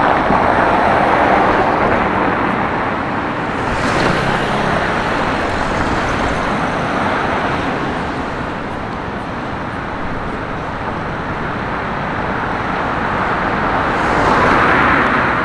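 Road traffic: steady tyre and engine noise of passing cars, swelling near the start, briefly about four seconds in, and again near the end.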